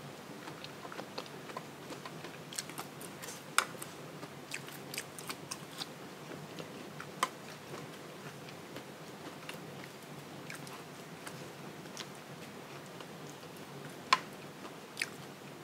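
A person chewing and biting food close to the microphone while eating chicken noodle soup with bitter melon: soft wet mouth clicks throughout, with a few sharper clicks about three and a half seconds in, around seven seconds, and near the end.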